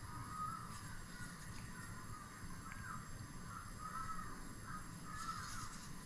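Faint bird calls: a string of short chirping notes, repeating irregularly over a steady low background hum.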